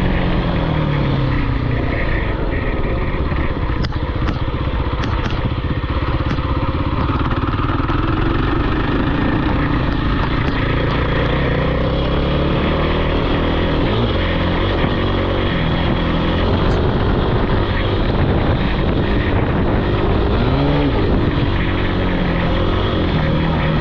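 Off-road vehicle engine running loud and close, its pitch rising and falling repeatedly as the throttle is opened and closed.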